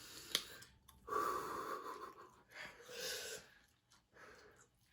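A person breathing hard through the mouth against the burn of spicy seafood sauce: two long breathy huffs, the first about a second in and the second around three seconds in, after a small click near the start.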